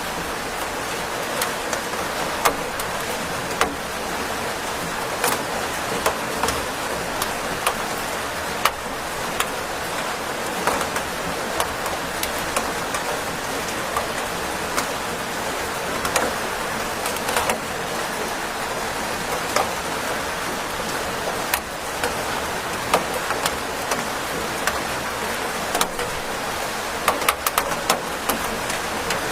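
Steady rain falling, an even hiss with many separate drops ticking sharply on a hard surface, the ticks coming thicker near the end.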